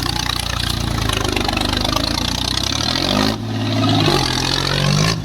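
Heavy diesel vehicle engine running hard under load, its pitch rising briefly just before three seconds in; the sound changes abruptly about three and a half seconds in, then the engine runs on steadily.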